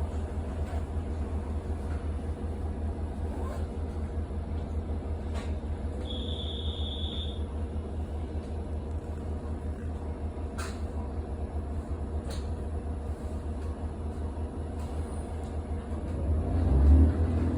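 Diesel railcar engine idling with a steady low rumble. A short high beep sounds about six seconds in, and the rumble swells briefly near the end.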